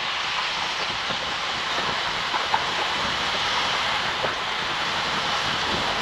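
Steady rush of wind and road noise while riding a motorcycle, as picked up by the rider's camera microphone.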